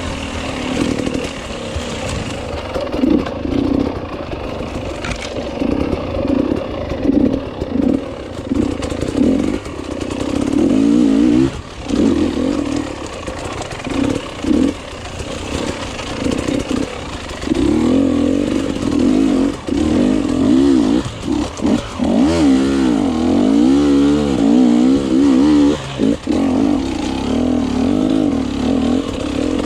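Enduro motorcycle engine under a rider's throttle, the revs rising and falling as the throttle is opened and shut many times in quick succession. It holds the throttle longer in the second half, with the pitch wavering up and down.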